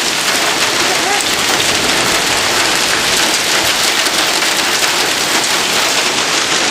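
Heavy rain mixed with hail pelting down: a steady, dense patter of many small impacts on hard surfaces.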